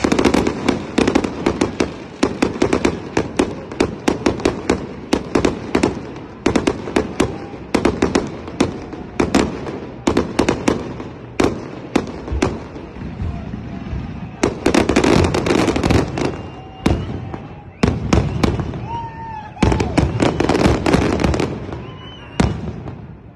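Fireworks display: an irregular run of sharp bangs from bursting aerial shells, several a second. Two dense volleys of rapid bangs come about fifteen and twenty seconds in.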